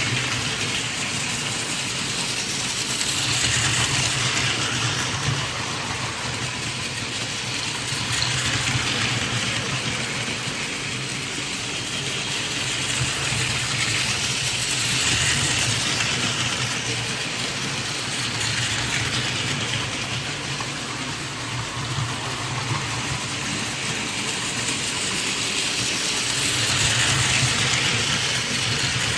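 Battery-powered Plarail toy Shinkansen trains running on plastic track: a steady whir of small motors and gearing with wheel rattle, swelling and fading every five or six seconds as the trains come near and move away.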